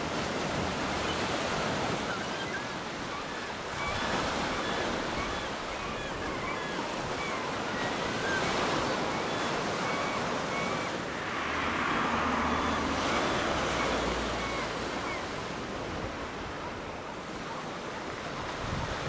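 Surf washing onto a beach, rising and falling in slow swells, with wind buffeting the microphone.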